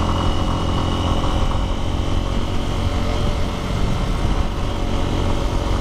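Lifan X-pect 200's single-cylinder 198 cc fuel-injected engine running steadily under way, heard from the bike while riding.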